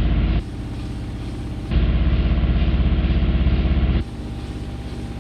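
LG Inverter Direct Drive washing machine in its high-speed final spin, the drum and cabinet giving off a loud, pulsing vibrating hum. The hum surges: it is loud at the start, drops about half a second in, and comes back loud from just under two seconds in until about four seconds in.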